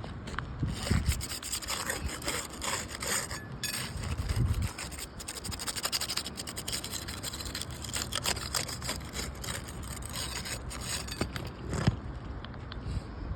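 Scraping and rasping on 3-tab asphalt shingles with many small crackles, as the damaged shingle row is worked loose for replacement. A few dull thumps come about one, four and twelve seconds in.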